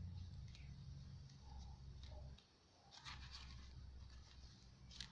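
Near silence over a low steady hum, with faint rustles of paper journal pages being handled, about three seconds in and again near the end.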